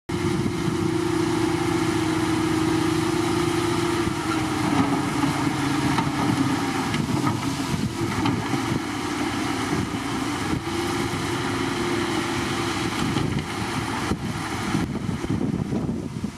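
Diesel engine of heavy earthmoving machinery running steadily, with a held whine that drops in pitch about four seconds in and returns about ten seconds later.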